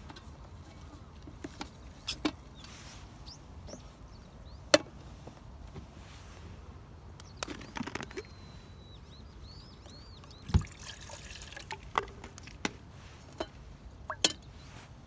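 Scattered sharp clicks and knocks over a low steady background, with a bird calling a quick run of short chirps about nine seconds in.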